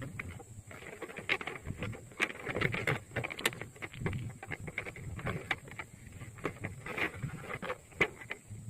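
Water splashing and sloshing, broken by many irregular sharp clicks and knocks.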